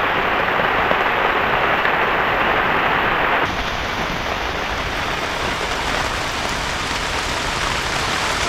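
Heavy rain falling steadily; about three and a half seconds in the sound changes abruptly, becoming a little quieter and hissier.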